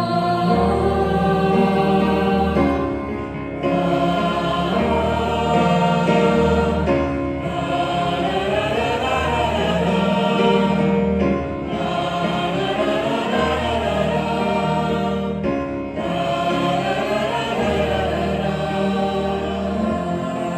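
Choir singing held chords, with low bass notes underneath, in phrases of about four seconds each.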